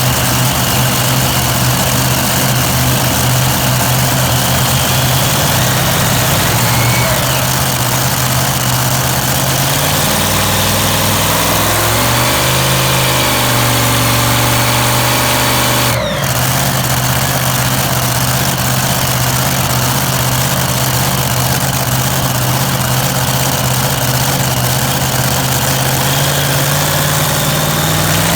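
Super-modified pulling tractor's engine running loud and steady as it warms up. From about ten seconds in the revs rise and fall a few times, then it settles back to a steady run after a brief break about sixteen seconds in.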